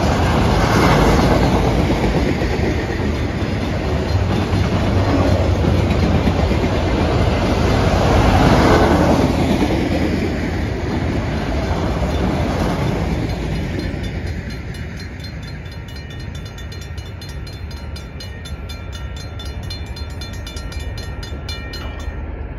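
Norfolk Southern manifest freight train's cars rolling past a grade crossing with wheels clacking over the rail joints. About two-thirds of the way through, the rumble fades as the end of the train clears the crossing, leaving the crossing bell ringing rapidly. The bell stops just before the end as the gates go up.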